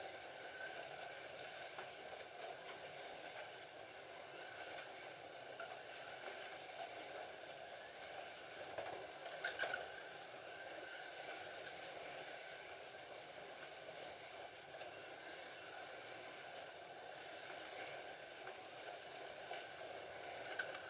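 Several Scalextric slot cars running laps on a plastic track: a steady whir of their small electric motors and the rattle of the cars along the slots, with a few faint clicks.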